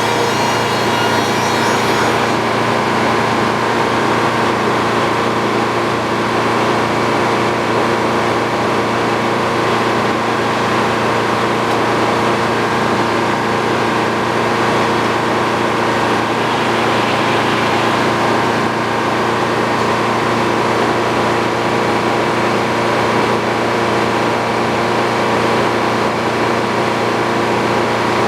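Sawmill engine running steadily. A saw blade is cutting through a wooden beam, and the high whine of the cut ends about two seconds in, leaving the engine running on its own.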